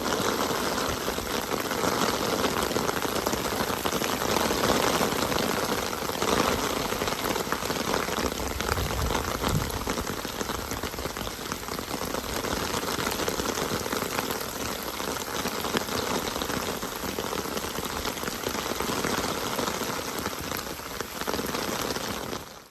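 Steady rain falling, a dense hiss of countless drops; it cuts off suddenly at the very end.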